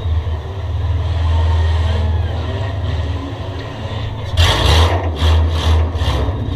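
Race car engine running with a steady low drone. About four seconds in, a long loud rush of noise is followed by several shorter ones.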